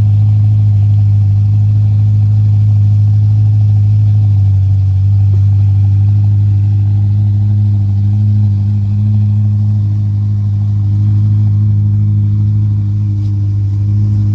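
A car engine running at a steady, unchanging speed, a loud, deep drone. It cuts off abruptly at the very end.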